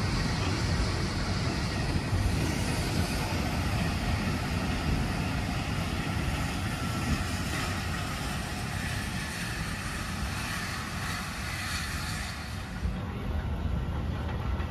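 A train of old passenger coaches rolling past on the track, a steady rumbling noise.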